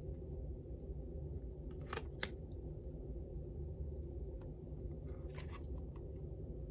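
A couple of brief rustles with a sharp click about two seconds in and another short rustle near the end, over a steady low room hum.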